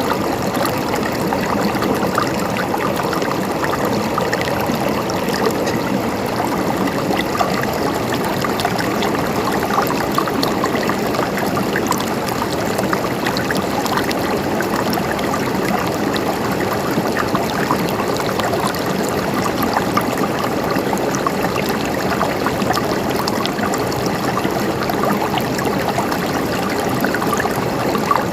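River water running over rocks: a steady, even rush and babble with fine splashing.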